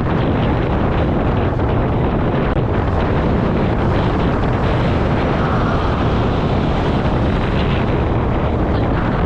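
Steady wind rushing over the microphone of a moving Honda Click 125i scooter, with the scooter's running and road noise beneath it.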